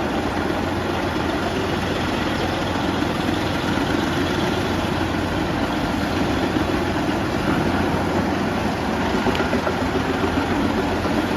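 Large industrial wood chipper running steadily, its engine and chipping drum making a constant heavy mechanical din.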